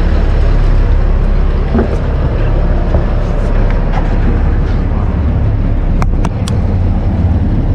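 Fishing boat's engine running steadily under way, a constant low rumble with wind and water noise over it, and a few sharp clicks about six seconds in.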